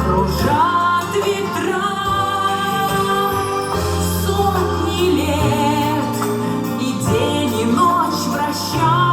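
Music: a woman singing long notes with vibrato over an instrumental backing with held bass notes.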